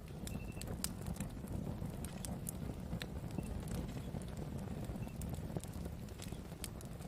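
Wood fire burning with a steady low rumble and irregular sharp crackles and pops of the burning wood.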